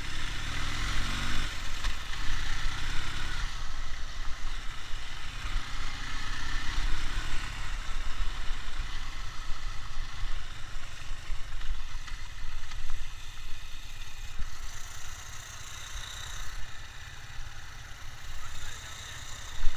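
Ural motorcycle's flat-twin engine running, revving up briefly near the start, then running more steadily.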